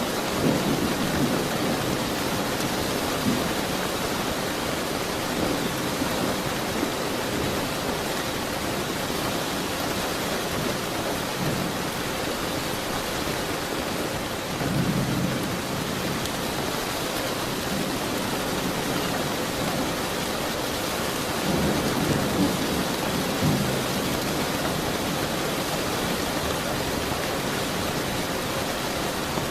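Steady rain with rolls of thunder: several low rumbles swell and fade over the rain, the longest about halfway through and around two-thirds of the way through.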